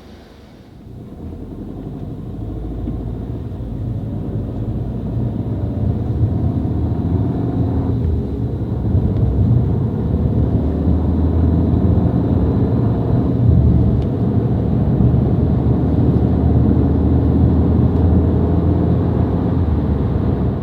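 Car driving on the road, engine and road noise low and steady; it grows louder over the first several seconds as the car picks up speed, then holds level.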